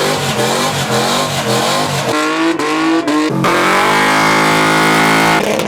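Car engine being revved hard, its pitch climbing in a couple of rises, then held steady at high revs for about two seconds before cutting off suddenly near the end.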